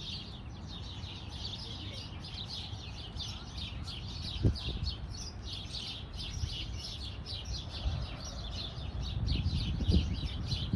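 Small birds chirping rapidly and continuously, many short high notes overlapping, over a low rumble, with a dull thump about four and a half seconds in and another near the end.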